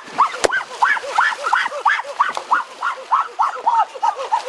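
A rapid, continuous series of short chirping animal calls, each rising and falling in pitch, about six or seven a second, with a single sharp click about half a second in.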